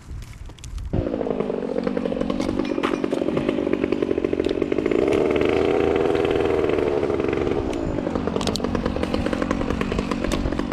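Chainsaw starting to run about a second in, held at high revs through the middle, easing off a little near eight seconds and stopping near the end.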